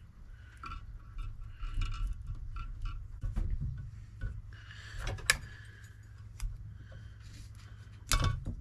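Light handling noises: scattered small clicks and taps, one sharp click about five seconds in and a louder clatter near the end, over a steady low hum.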